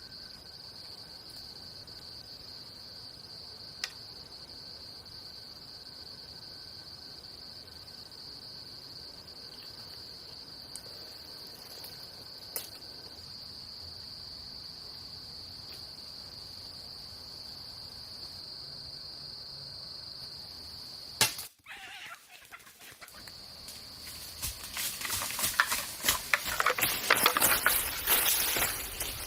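Insects droning steadily on one high tone, with two faint clicks. About three-quarters through, the drone cuts off sharply with a click. After a short lull, loud irregular crackling and rustling takes over until the end.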